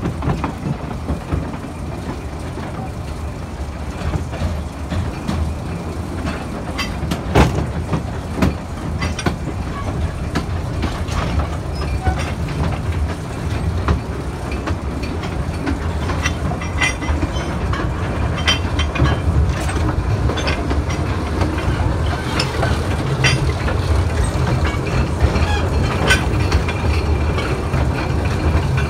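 A 2 ft gauge narrow-gauge train heard from its open carriage as it rolls along the track: a steady low rumble with scattered sharp clicks and clanks of wheels over the rail.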